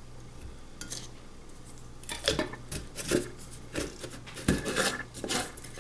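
Small diecast metal toy-car parts clinking and clattering against each other and a hard surface. It starts with a single faint click, and a run of irregular clatters follows from about two seconds in.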